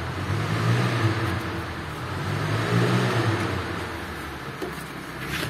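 Low motor-vehicle engine hum that swells and fades twice, with a short click near the end.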